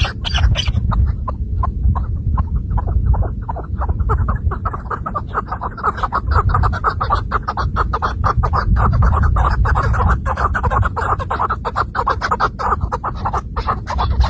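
Chukar partridge calling: a rapid, continuous run of clucking chuck notes, several a second, over a low rumble.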